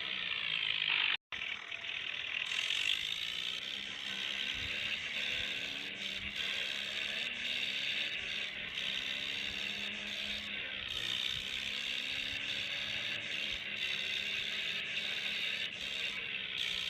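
A toy tractor's small motor and plastic gears running with a steady whirring rattle, the pitch wavering up and down. It cuts out for an instant about a second in.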